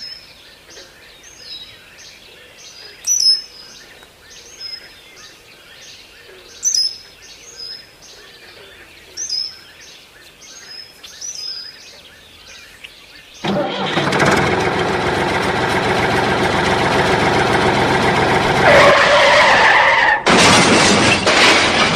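Small bird calling outdoors, repeating a short high chirp about twice a second with a few louder calls mixed in. About thirteen seconds in, a much louder steady sound covers it and runs on.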